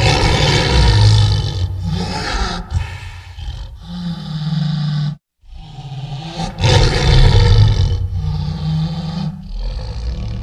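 Tiger roaring in two bouts, each opening with a loud roar and tailing off into lower, steadier calls. A brief dead-silent cut just after the halfway point separates the two.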